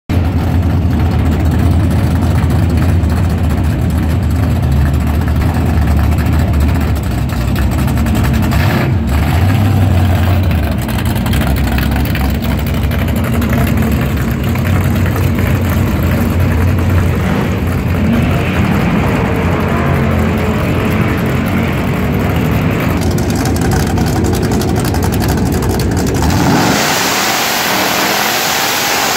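A 632 cubic-inch big-block Chevrolet V8 in a drag-race Holden Monaro runs at idle while the car rolls to the line. Near the end it revs up hard into a burnout, the pitch climbing as the rear tyres spin and smoke.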